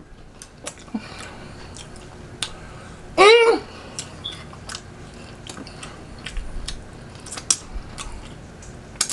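Close-miked eating sounds: chewing with scattered wet clicks and smacks of the mouth, and a brief vocal sound about three seconds in.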